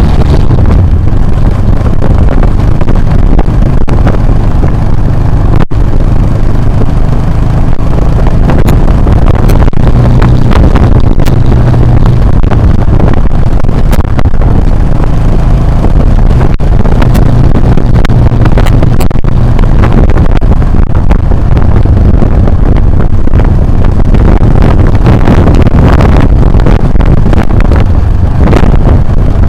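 Motorcycle engine running while riding off-road, heard through an action camera's microphone heavily buffeted by wind: a loud, steady low rumble with scattered short knocks.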